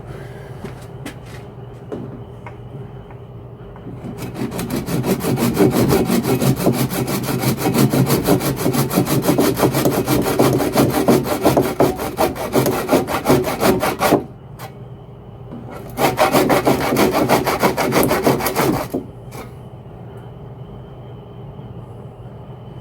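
A saw cutting through an old, clogged drain pipe with rapid back-and-forth strokes: a long spell of about ten seconds, a short pause, then about three seconds more.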